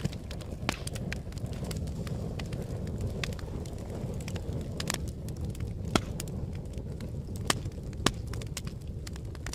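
Fire crackling: a steady low rumble of flames with frequent irregular sharp pops and snaps, a few louder pops about six, seven and a half and eight seconds in.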